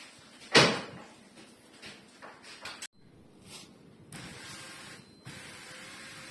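A sharp knock, then a steady electric whir from about four seconds in: a car's small electric motor running, likely the repaired sunroof being tried.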